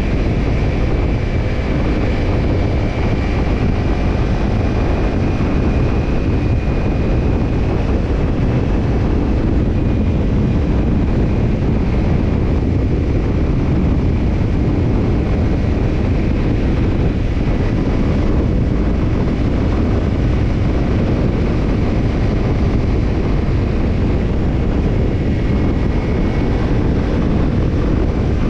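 Kawasaki Ninja 250's parallel-twin engine running steadily through a BEET NASSERT Evolution Type II titanium slip-on muffler while riding, mixed with wind rush on the microphone.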